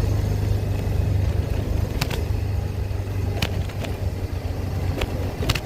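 Small motor scooter engine running steadily while riding, a low hum, with a few short sharp clicks about two, three and a half and five seconds in, and twice near the end.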